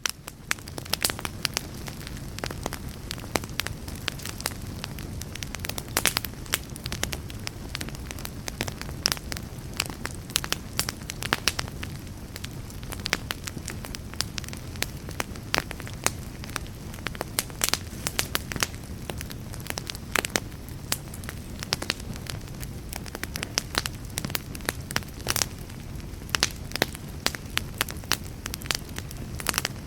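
Fire crackling: a steady low rumble and hiss of burning with frequent sharp, irregular pops and snaps, fading in at the start.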